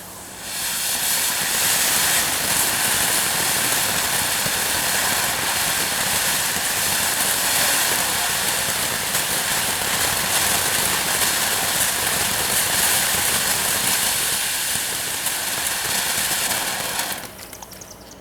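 Several ground fountain fireworks burning together, a loud steady hiss of spraying sparks that sets in about half a second in and dies away near the end as they burn out.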